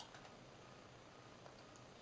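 Near silence: room tone with a few faint, short clicks, one right at the start and another about a second and a half in.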